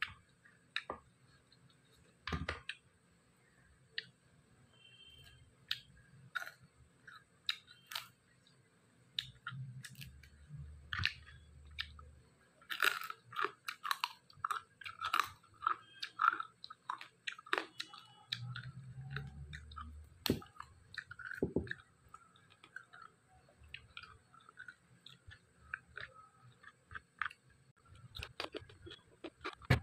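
A person chewing dry-fried pork close to the microphone: irregular crunchy, wet clicks, densest and loudest in the middle stretch.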